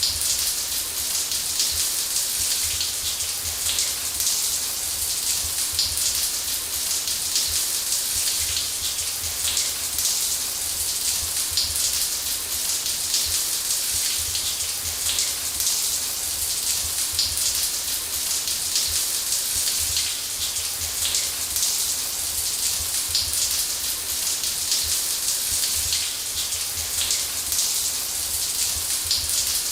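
Shower spray running steadily: a dense, even hiss of water drops striking a surface, strongest in the high treble, with no change.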